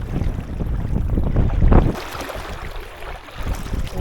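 Wind buffeting the microphone over water moving against a kayak under way at sea. The wind rumble is heavy for the first half and drops away about halfway through.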